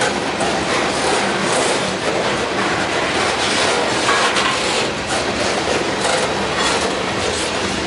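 Freight train of open-top hopper cars rolling past close by: a steady rumble of steel wheels on the rails, with the clack of wheels over rail joints.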